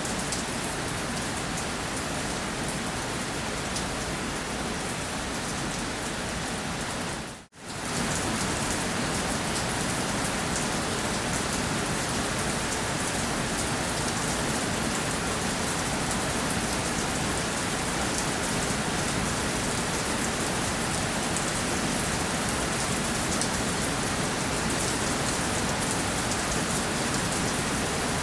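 Steady rain falling, a dense even hiss of drops. About seven seconds in it cuts out for a split second, then carries on.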